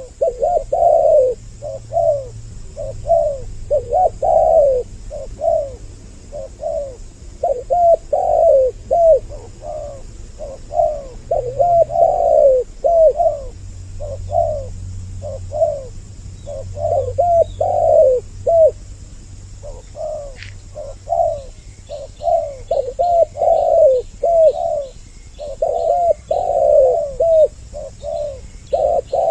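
Spotted doves (tekukur) cooing over and over, two birds' calls overlapping in a continuous run of coos. Faint, regular high chirps sound behind them in the last third.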